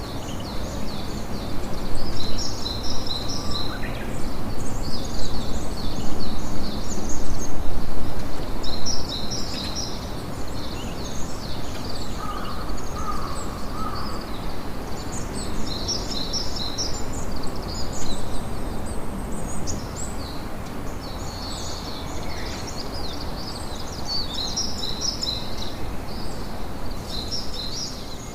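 Campfire ambience: a steady noisy bed of fire, with birds chirping in repeated clusters of short, high calls throughout.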